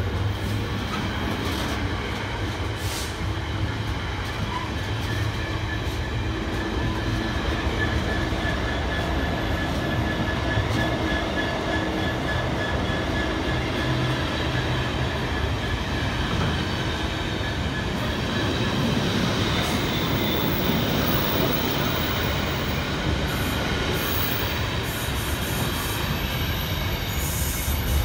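Intermodal container freight train passing close by at a steady speed: a continuous, even noise of the wagons' wheels running on the rails.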